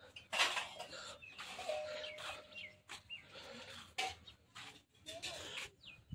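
Farmyard birds giving short calls and chirps over intermittent rustling and scuffing noises.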